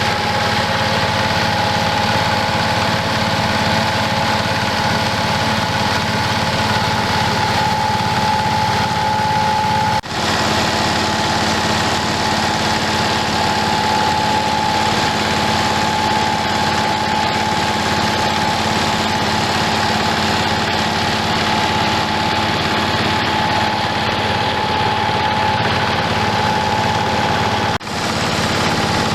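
Rice husk milling machine running steadily with a constant hum and whine. The sound dips briefly twice, about ten seconds in and near the end.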